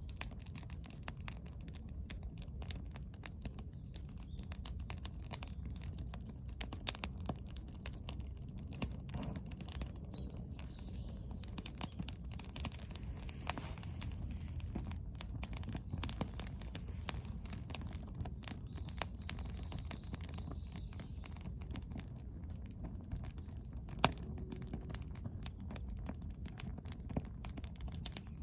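Wood fire burning in a fire-pit stand, crackling with irregular snaps and pops, a few of them louder, over a low steady rumble.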